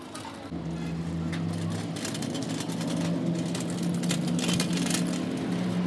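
A machine motor starts about half a second in and runs with a steady low hum, with scattered light clicks and scrapes over it.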